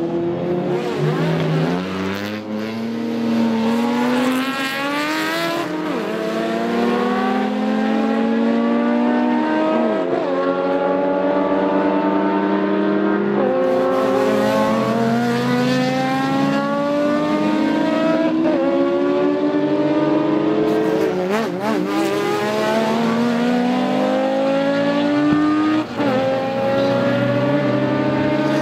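Exhaust of a 1965 Porsche 911 2.0 SWB's air-cooled flat-six, pulling hard under load. The pitch climbs steadily, then drops back sharply, over and over, as the car runs up through the revs and shifts or lifts.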